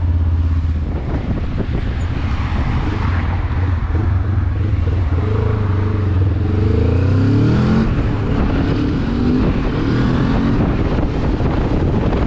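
Benelli TRK 702 motorcycle's parallel-twin engine pulling away and accelerating, its pitch climbing, dropping once about eight seconds in at a gear change, then climbing again, with wind noise over the microphone.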